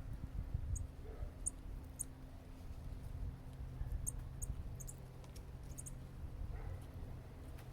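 Small birds giving short, very high chip notes, about nine scattered irregularly, over a low steady rumble.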